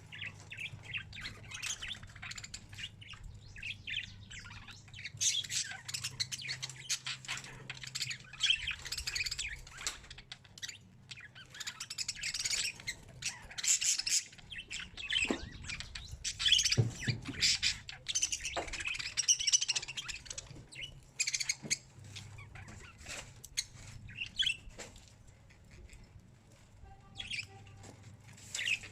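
Small birds chirping and calling in quick, short notes, many overlapping, with a faint steady low hum underneath.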